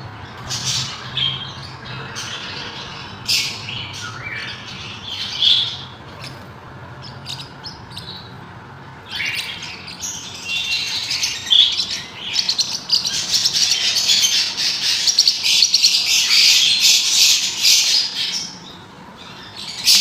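Small pet parrots in a breeding colony calling: scattered squawks and chirps at first, then loud, dense chattering from about nine seconds in until near the end.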